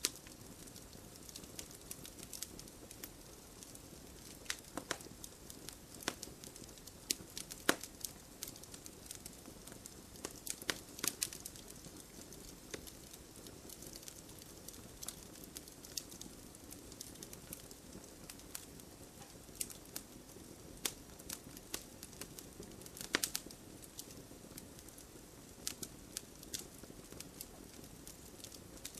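Wood campfire burning and crackling: irregular sharp pops and snaps over a low steady hiss, with a few louder pops.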